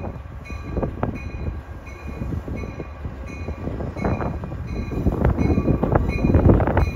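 Commuter train rolling slowly past with a low rumble and occasional clanks from the wheels and cars. A bell rings faintly and steadily, about twice a second, fading out around five seconds in.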